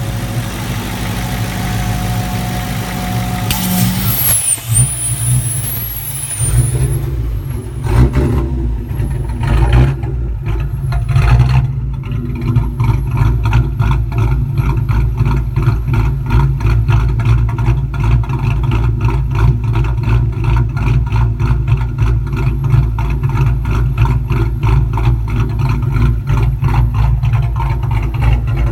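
Ford Mustang GT's 4.6-litre V8 running with its PCV vacuum hose pulled off, giving a choppy, lopey idle like an engine with an aggressive camshaft. The engine struggles to hold vacuum and runs rich. A hiss covers the first few seconds, and a few louder surges come before it settles into a steady, uneven pulse.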